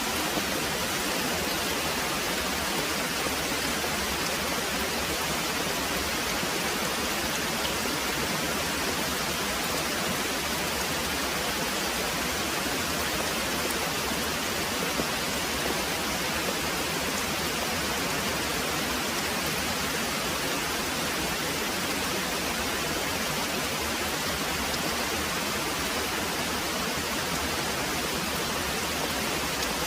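Very heavy rain pouring steadily, an even hiss with no breaks or thunder claps.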